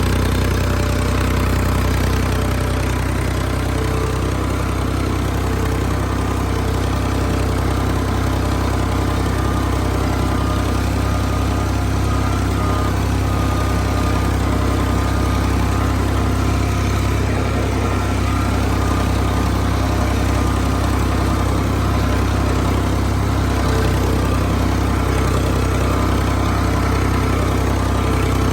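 Engine of a field-scraping machine running steadily at a constant speed, with a deep, even drone and no change in pace.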